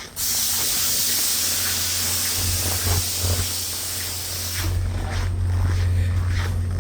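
Compressed air venting from the stopped passenger train's air system, a sudden loud hiss that lasts about four and a half seconds and then eases off, over a steady low hum.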